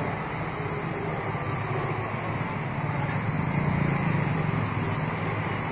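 Motor vehicle engine hum with road traffic noise, running steadily and getting a little louder about three and a half seconds in.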